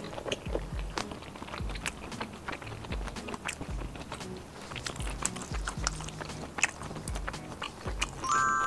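Close-miked chewing of fried skewer food: many small crisp crunches and wet mouth clicks, over soft background music.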